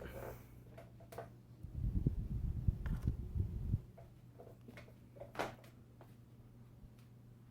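Casablanca Delta II ceiling fan's Samsung K55 motor running on medium speed in reverse with a steady low hum. About two seconds in, a loud low rumble lasts around two seconds, and a few faint clicks follow.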